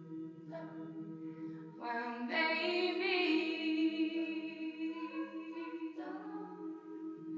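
A cappella group singing sustained chords with no instruments, the voices swelling to a fuller, louder chord about two seconds in and easing back after about five seconds.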